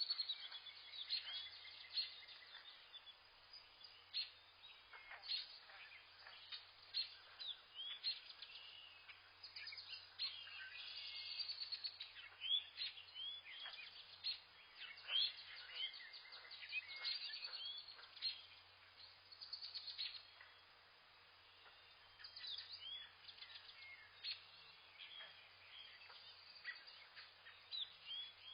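Several wild birds chirping and calling together: a dense run of short, quick chirps and sweeping whistles, with a faint steady low hum underneath.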